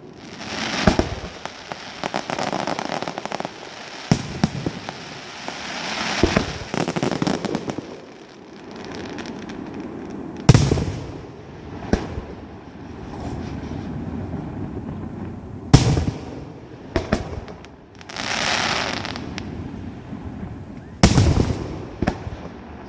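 Fireworks display: sharp shell bursts every few seconds, the loudest about ten, sixteen and twenty-one seconds in, with stretches of crackling between them.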